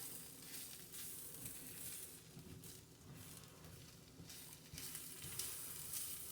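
Faint sizzling of flour being stirred into hot fat in a frying pan, the flour starting to brown into a roux for gravy.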